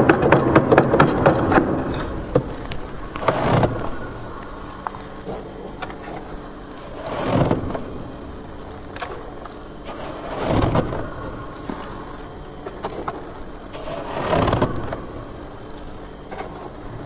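Close-up crunching of freezer frost ice: a dense run of crackles for about the first two seconds. After that come softer whooshing swells roughly every three to four seconds.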